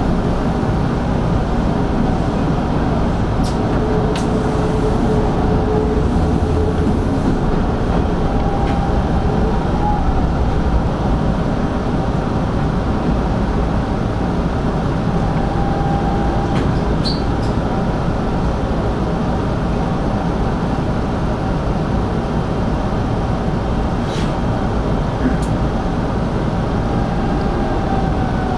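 Hanshin 5500 series electric commuter train running along the track: a steady rumble of wheels on rails with a faint motor whine that falls in pitch near the end, and a few light clicks.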